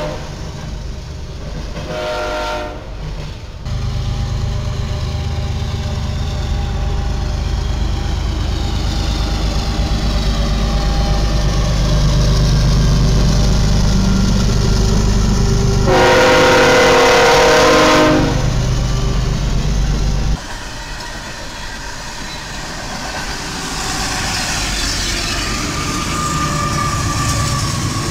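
A train horn sounds briefly, then the heavy rumble of a passing train builds, with a loud horn blast of about two seconds midway. About twenty seconds in the sound changes abruptly to a quieter rumble with a faint, slowly falling whine.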